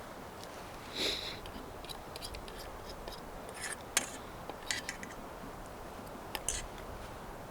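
Close handling of small objects: a short rustle about a second in, a sharp click near the middle, then a few more brief scratches and clicks, over a faint steady hiss.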